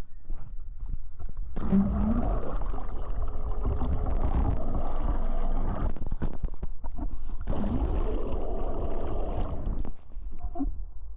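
Rushing wind and water noise from a moving boat, with a steady low rumble underneath. It comes in surges and drops briefly near the start and again about ten seconds in.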